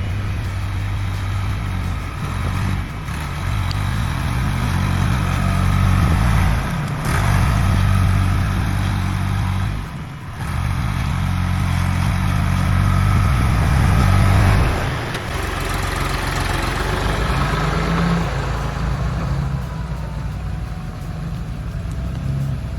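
Heavy vehicle engine running steadily, its revs rising and falling, with brief dips about ten and fifteen seconds in.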